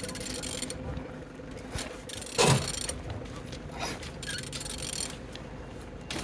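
Opel/Vauxhall Z19DT 1.9-litre common-rail diesel engine idling steadily. There is one louder thump about two and a half seconds in.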